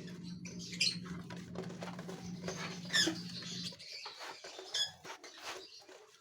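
Gouldian finches calling: short, high chirps a few times, with a steady low hum under them that cuts off a little over halfway through.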